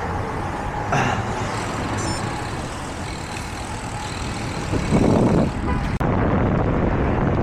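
Road traffic passing alongside, a steady rush of vehicle noise, with a short louder rush about five seconds in. The sound changes abruptly about six seconds in.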